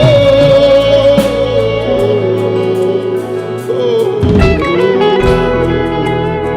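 Live worship-band music: a melody line holding long, slightly wavering notes over bass and regular drum and cymbal hits.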